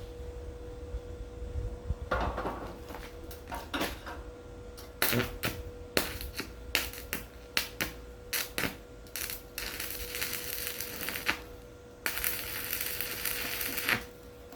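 Hand work on a metal brazier: scattered metallic clinks and knocks, then two bursts of steady hissing about two seconds each. A faint steady hum runs underneath.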